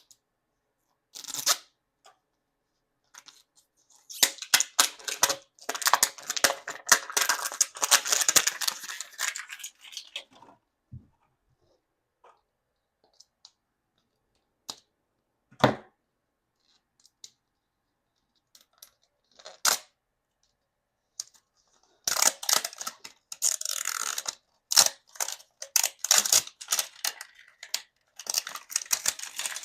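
Toy packaging being torn open and crinkled by hand in two long, crackly stretches, with a few single sharp clicks and taps in between.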